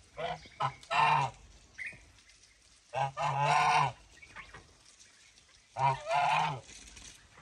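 Domestic geese honking: loud, harsh calls in bunches, several short honks early, a long drawn-out honk a few seconds in, and another burst near the end, with pauses between.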